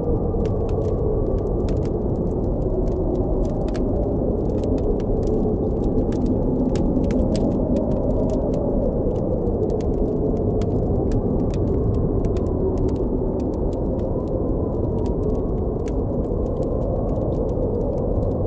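Blizzard wind blowing low and steady, with a howl that wavers slowly up and down in pitch, over a campfire crackling in frequent small sharp pops.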